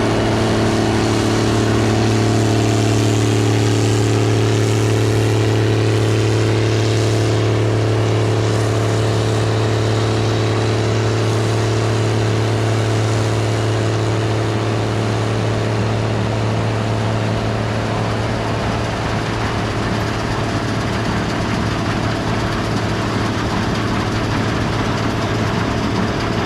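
Gleaner R72 combine running steadily, a constant deep engine drone with a few steady higher tones over it.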